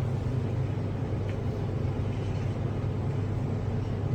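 Steady low mechanical hum with a faint click about a second in.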